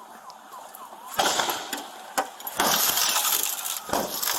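A 2015 Toyota Camry's side window being smashed in from outside: a sharp strike about a second in, another a second later, then about a second of smashing and crunching glass, and one more strike near the end.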